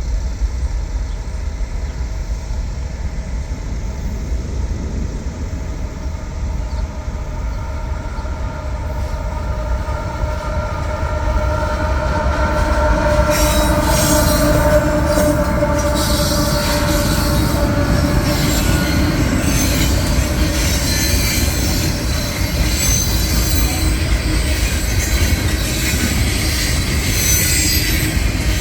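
CSX freight train led by a diesel locomotive, passing on the rails with a steady rumble that grows louder about halfway through. Wheel squeal and clatter join it from then on.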